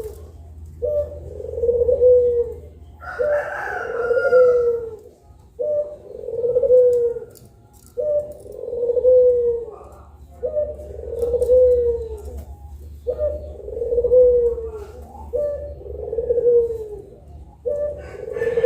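Puter pelung dove cooing: long, drawn-out low coos repeated back to back, each about two seconds long and falling slightly at the end. A higher call overlaps about three seconds in and again near the end.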